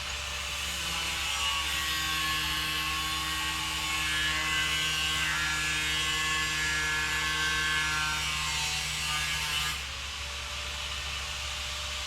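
A power tool cutting or grinding sheet metal, running steadily for about nine seconds and then stopping abruptly, over a steady low hum.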